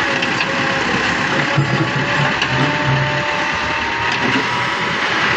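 Machinery running with a steady, loud mechanical rattle.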